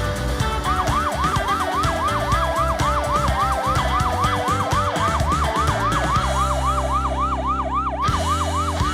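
A fast yelping siren, about three to four rising-and-falling wails a second, starting just under a second in, over background music with a steady beat.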